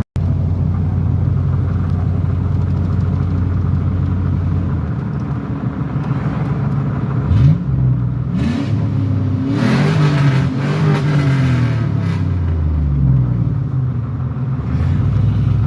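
Straight-piped 5.3-litre V8 of a 1999 Chevrolet Silverado Z71, running loud and steady, then revving about seven seconds in, its pitch climbing and falling for several seconds before it settles back to a steady note.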